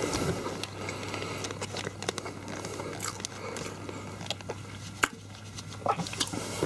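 Chewing a mouthful of flaky Jamaican beef patty while its plastic wrapper crinkles in a gloved hand, heard as scattered small clicks and crackles over a low steady hum.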